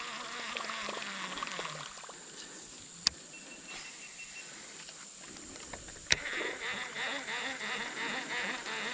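Outdoor riverside ambience: insects buzzing and chirring with a steady high whine over a soft rush of fast-moving water. Two sharp clicks come about three and six seconds in, and the insect chirring gets busier after the second one.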